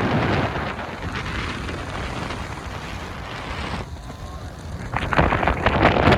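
Wind buffeting the microphone on a moving river boat: a rough, rumbling rush that eases briefly about four seconds in, then comes back stronger.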